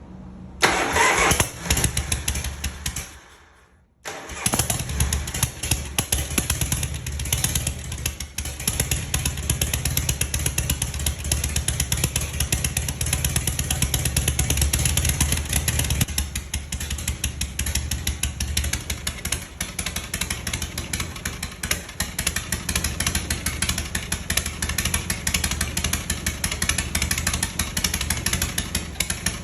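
Harley-Davidson FXE1200 Shovelhead V-twin, fitted with a replacement muffler, being started: a short burst of cranking dies away, then the engine fires about four seconds in and runs. It is loudest for the first dozen seconds or so, then settles a little lower and keeps running.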